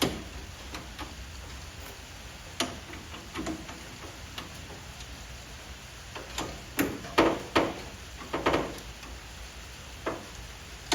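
Scattered clicks and knocks of a hand tool and a loosened metal fender mounting bracket being shifted into place, sparse at first, with a quick run of louder knocks about six to nine seconds in.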